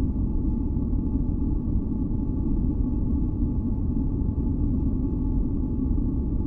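Steady, deep rumbling noise, a low-pitched masking noise with faint steady tones in the upper mids, unchanging throughout.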